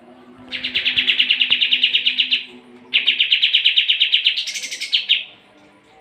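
Pied triller (kapas tembak) singing two long, rapid trills, each about two seconds, the second ending in a higher, buzzier flourish.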